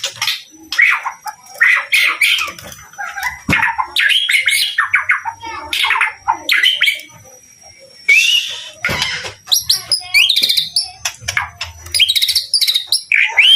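White-rumped shama singing a fast, varied song of whistles, chirps and trills, phrase after phrase, with a short pause about two-thirds of the way through.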